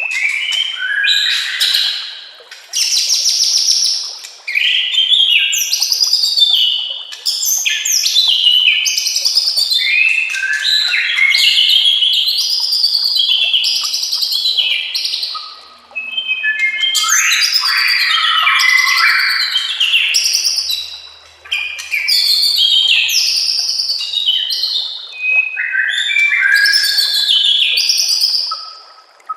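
White-rumped shama (murai batu) singing a loud, rapid, ever-changing song of whistles, trills and chattering phrases, with only short breaks. It is a 'full isian' song, filled with phrases mimicked from other birds.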